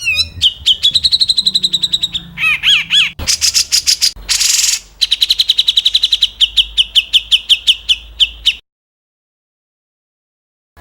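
Edited sequence of recorded songbird calls of the rapid 'tembakan' type: fast repeated chattering notes and slurred whistles, spliced together with abrupt cuts and a short harsh rasp about four seconds in. The sound cuts to dead silence for the last two seconds.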